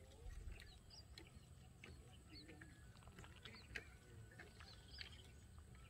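Near silence: faint outdoor ambience with small birds chirping now and then in short high calls.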